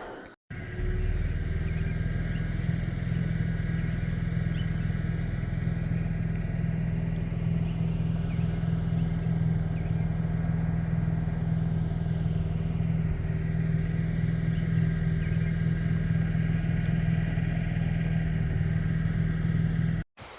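Steady engine and road noise of a motor vehicle travelling at an even speed, with a constant low hum.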